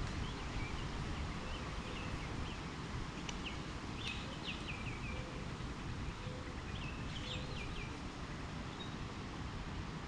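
Birds chirping in short, quick bursts of falling notes a few times, over a steady low rumble of outdoor background noise.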